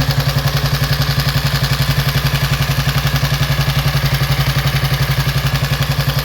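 Vintage 1937 500 Sport motorcycle engine idling steadily after an easy start. Its exhaust beats come as an even, regular pulse, about a dozen a second.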